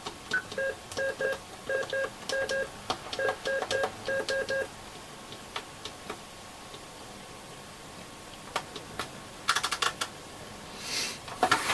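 Short electronic key beeps from an AOR AR-2002 scanner receiver's keypad as its buttons are pressed, about a dozen in quick succession. A few sharp clicks and taps follow near the end.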